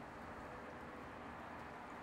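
Faint, steady rumble of a distant train hauled by the Beyer-Garratt steam locomotive 6029, under a hiss of wind and rain noise.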